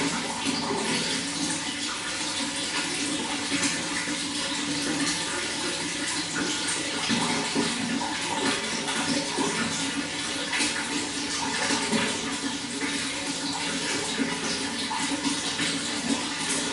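Running water flowing steadily with a continuous splashing rush.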